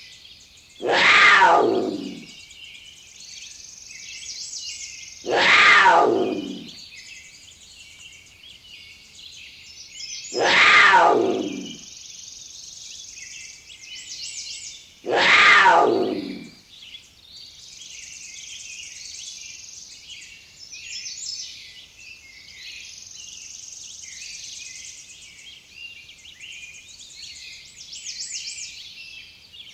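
An animal calling four times, a few seconds apart, each call about a second and a half long and sliding down in pitch. Under the calls runs a steady chatter of birds and insects.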